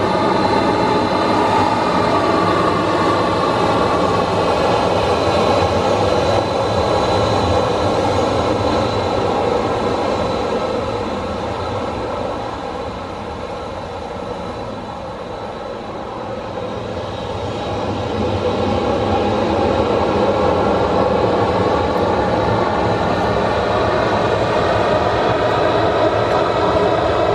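Boeing 737-800's CFM56 turbofan engines running with a steady, loud jet whine made of several held tones. The sound eases off somewhat in the middle, then swells back up.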